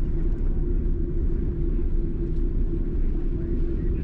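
Cabin noise of a Boeing 747-8 taxiing after landing: a steady low rumble of engines and airframe with a constant hum.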